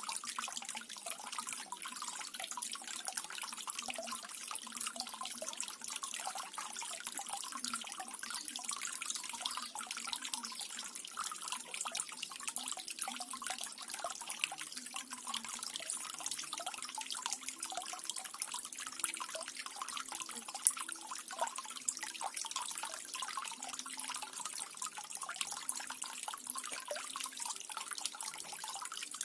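Small garden waterfall: water trickling and splashing steadily, a dense patter of little drips and splashes.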